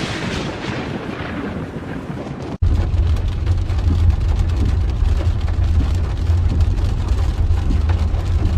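A thunderclap that fades away over about two seconds, then, after a cut about two and a half seconds in, a thunderstorm: rain with a steady low rumble of storm wind.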